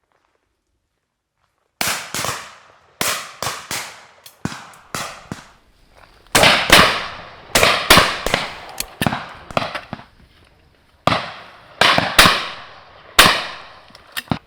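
Shotguns firing at driven pheasants, about twenty shots in quick irregular volleys, some much louder than others, each trailing off in an echo, with a brief lull about two-thirds of the way through.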